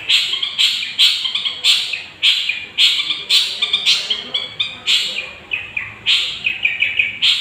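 Long-tailed shrike (cendet) singing a loud run of harsh, rapid chattering phrases, a new burst about every half second, cutting off suddenly at the end.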